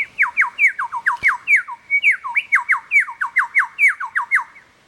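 Lyrebird mimicking a car alarm: a fast, steady run of loud falling whistles, about five a second, that stops shortly before the end.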